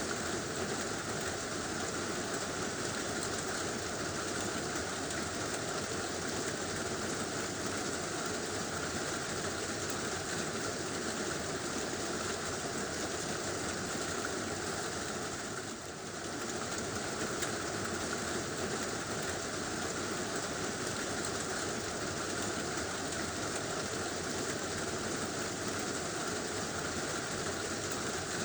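Heavy rain drumming steadily on a tin roof, an even unbroken hiss with a brief slight drop in level a little past halfway.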